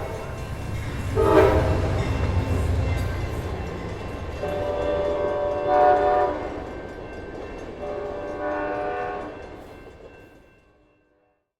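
Train horn sounding several long blasts over the low rumble of a moving train, fading away near the end.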